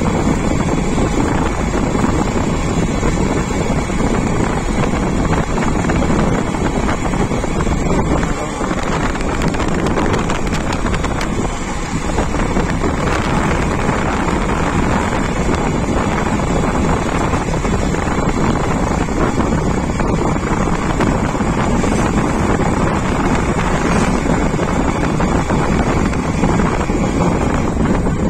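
Wind buffeting the microphone over a steady, unbroken rushing noise, with a faint steady whine above it.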